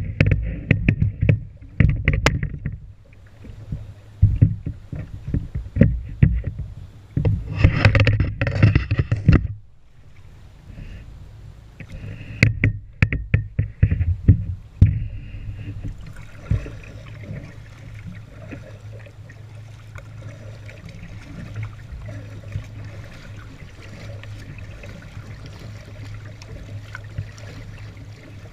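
Kayak paddling through flood water: uneven paddle strokes and splashing with scattered sharp knocks for about the first fifteen seconds, then a quieter, steadier wash of water.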